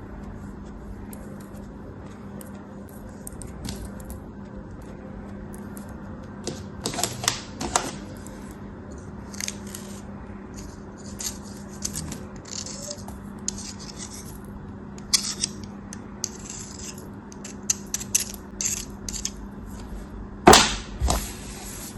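A knife cutting and crumbling ASMR crafting material (soap or kinetic sand) in short, crisp crunches at uneven intervals. The loudest is a sharp crunch near the end, all over a steady low hum.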